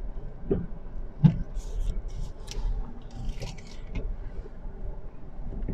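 Car cabin noise while driving on snowy city streets: a steady low engine and road rumble, with a couple of small knocks about a second in and several short hissing, scraping sounds after that.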